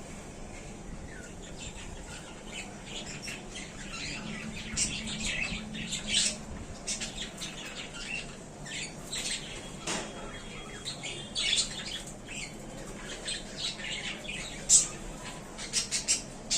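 Budgerigars chirping and squawking in a stream of short, sharp calls, with wings fluttering in the cage. One call near the end is louder than the rest.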